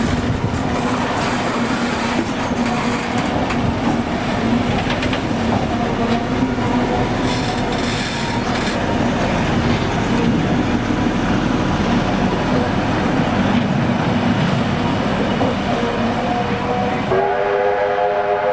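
Train running along the track: steady rumble and wheel noise with clickety-clack. About 17 seconds in, a held multi-note train signal begins.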